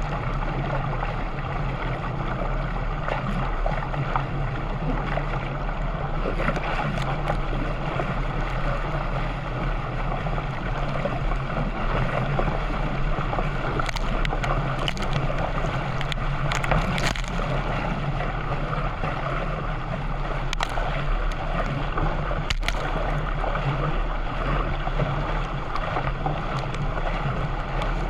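Water rushing and sloshing steadily around a canoe under way, over a steady low drone, with a few sharp splashes or knocks in the middle.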